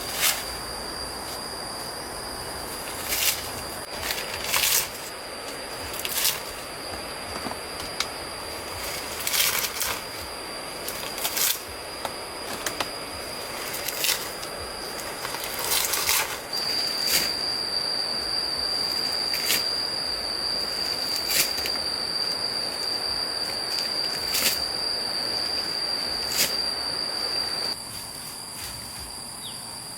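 Insects buzzing on a steady high note over a stream's rush, with sharp knocks every second or two. Past the middle the insect sound grows louder and pulses rapidly, then it drops away suddenly near the end.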